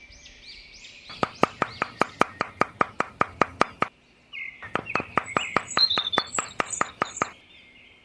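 Birds chirping, over two runs of sharp, evenly spaced ticks at about four a second, with a short gap near the middle.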